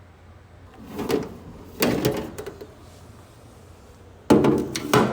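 Sewing machine's cover being lifted off and set down: a few short knocks and clunks, the loudest cluster near the end.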